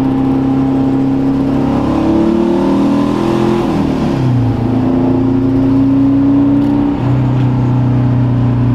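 Porsche 914's air-cooled 2.0-litre flat-four engine pulling under acceleration, heard from the open cockpit. Its note rises, falls sharply about four seconds in as the driver shifts up a gear, then climbs steadily again.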